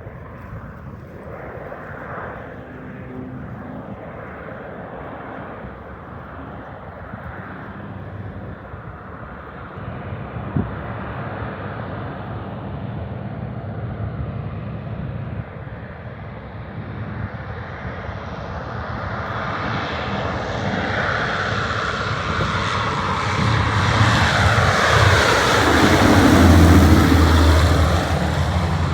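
Light floatplane's piston engine and propeller running, growing steadily louder as the plane comes close and passes, loudest about 26 seconds in.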